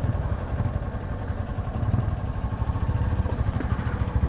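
Rusi KR200 dirt bike's single-cylinder engine running steadily while riding, a low pulsing drone.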